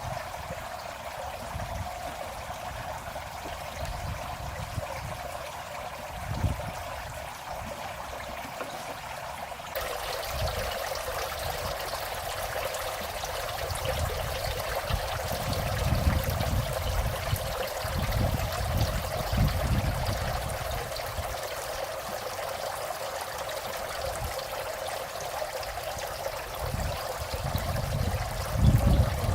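Water running and trickling steadily, a little louder and brighter from about a third of the way in, with irregular low rumbles underneath.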